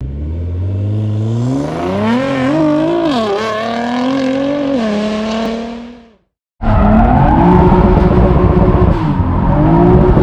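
Car engine revving and accelerating, its pitch climbing and wavering before fading out about six seconds in. After an abrupt cut, a second loud stretch of car engine and road noise runs at a steadier pitch.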